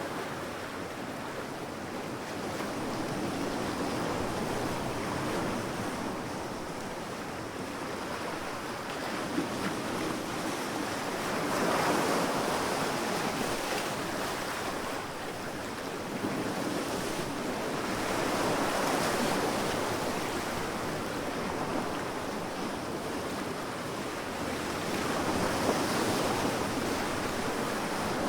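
Sea waves breaking and washing up on a sandy beach, a continuous surf that swells three times, roughly seven seconds apart.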